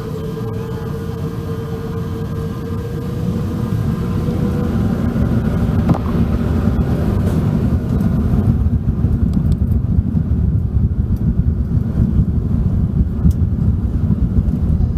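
Airbus A380 cabin noise with its Rolls-Royce Trent 970 engines: a loud, deep rumble that grows steadily louder, with a faint whine that fades out a few seconds in.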